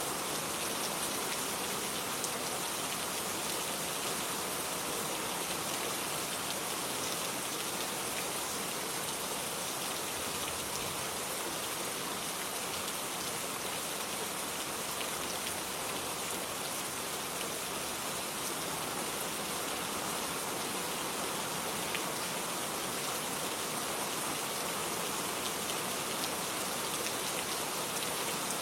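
Steady rain falling in a garden, an even hiss of drops with a few faint individual drop ticks.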